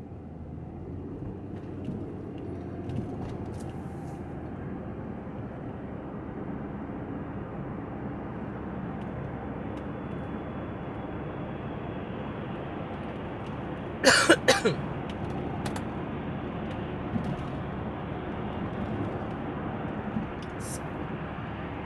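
Steady road and engine noise inside a moving car's cabin, with one short, loud burst about two-thirds of the way through.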